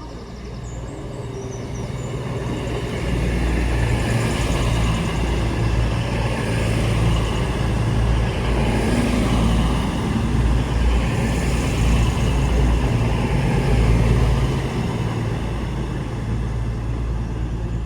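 A train moving through the station platform: a heavy rumble that builds over the first few seconds, stays loud through the middle and eases slightly near the end.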